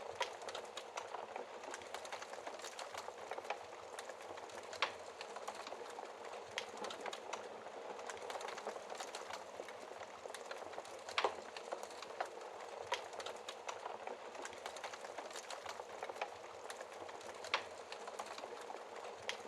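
Wood fire crackling in a fireplace: a steady soft hiss with many small ticks and a few louder sharp pops.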